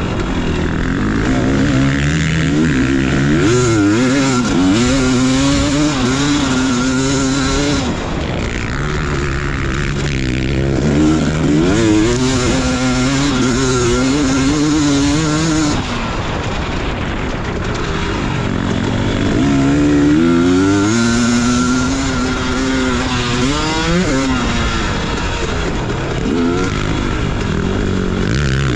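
Motocross dirt bike engine being ridden hard, its pitch climbing and dropping back again and again as the throttle is opened and chopped and the gears change.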